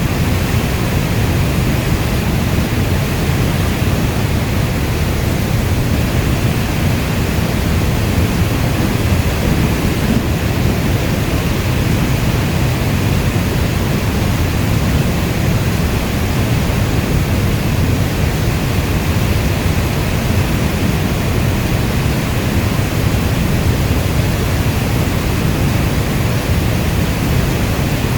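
Steady heavy rainstorm: an even, unbroken wash of rain noise, heaviest in the deep low end, with no single drops, thunderclaps or other events standing out.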